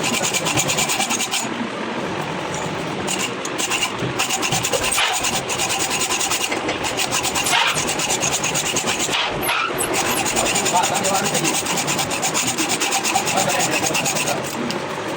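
Continuous rasping, crackling metalworking noise from work on a worn shaft.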